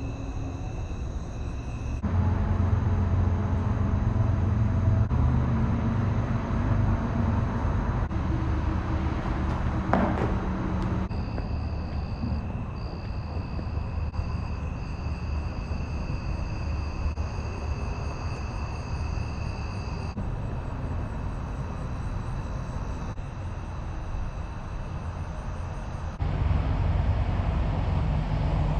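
Car driving on a road: a steady low rumble of road and engine noise, broken into several short stretches by abrupt changes, with a single knock about ten seconds in.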